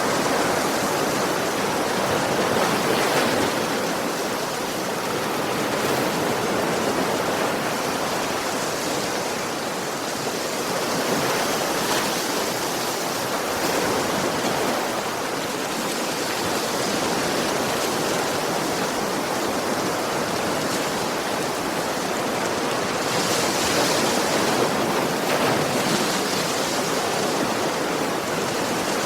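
Sea waves washing onto a shore: a continuous hiss of surf that swells gently every few seconds, with a stronger wash about three-quarters of the way through.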